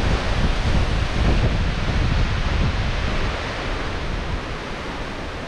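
Strong gusty wind rushing and buffeting the microphone with heavy low rumble, easing slightly toward the end.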